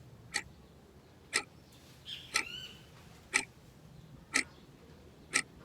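A clock ticking, one sharp tick each second, six ticks in all, marking the time given for counting.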